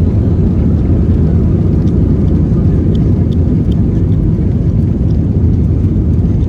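Cabin noise inside an Airbus A320-232 airliner: a loud, steady low rumble from the jet engines and airflow, with no change in pitch or level.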